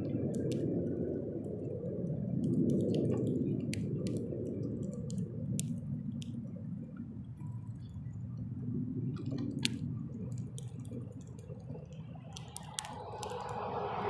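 Irregular sharp clicks and taps of a bird pecking and cracking seed at a feeder, over a low steady rumble.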